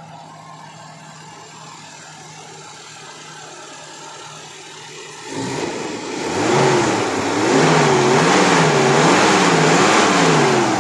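2010 Maruti Gypsy's 1.3-litre four-cylinder petrol engine idling steadily, then, about five seconds in, revved by hand at the throttle linkage: the pitch rises and falls in repeated quick blips, about one every 0.7 seconds.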